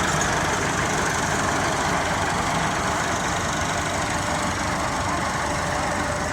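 Tractor diesel engine running steadily, with a rapid low chugging throughout.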